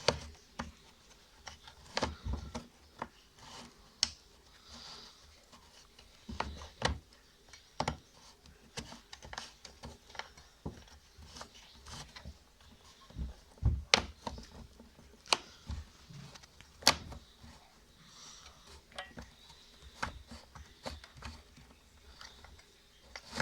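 A screw being tightened into a washing machine's drain mechanism, where it holds a plastic lock in place: scattered sharp clicks and taps of the tool and parts at irregular intervals.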